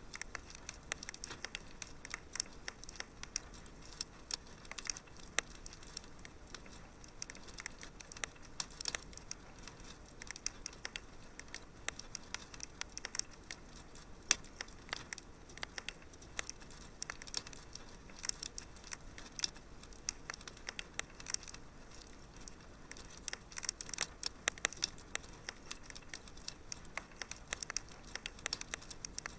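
Wood fire in a fireplace crackling, with dense, irregular small pops and snaps over a soft steady hiss.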